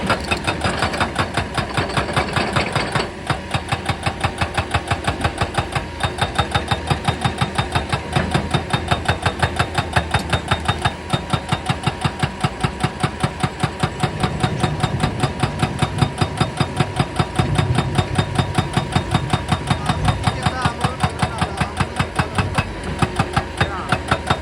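Excavator-mounted hydraulic breaker hammering rock in a fast, even series of blows, about five a second, over the steady running of the excavator's engine.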